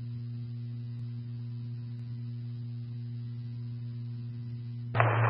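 Steady electrical hum with a low buzz between scanner transmissions. Near the end a burst of radio static comes in as the next transmission keys up.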